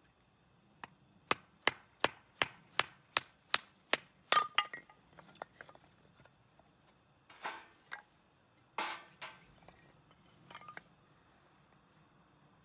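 Chopping on wood: about nine quick, evenly spaced chops, then lighter scattered knocks and two longer, rougher noises.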